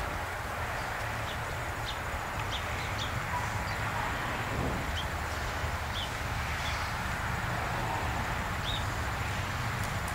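Small birds chirping now and then over a steady outdoor rumble.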